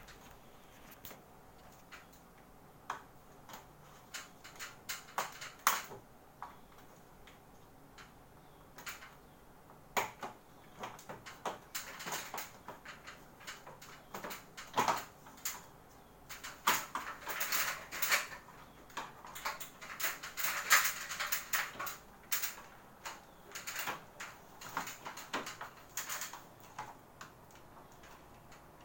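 Irregular clicks, knocks and short scrapes of a Panasonic Sky Series air conditioner's casing being handled and opened, growing busier about a third of the way through.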